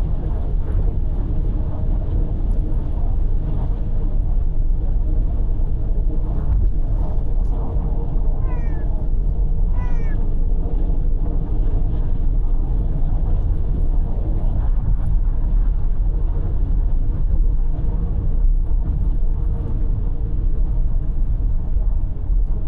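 Steady car road and engine noise inside the cabin, with a cat meowing twice in quick succession about eight and ten seconds in.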